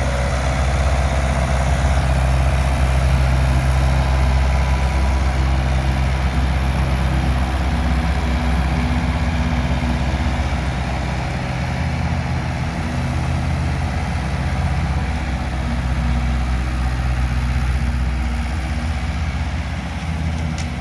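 Ford tractor engine running steadily while mowing grass with a rear-mounted grass cutter.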